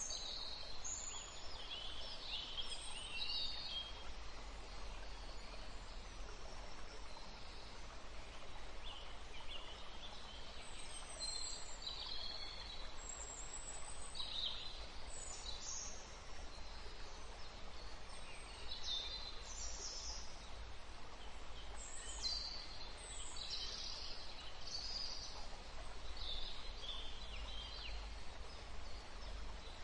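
Short high bird chirps and whistles, scattered irregularly over a steady background hiss.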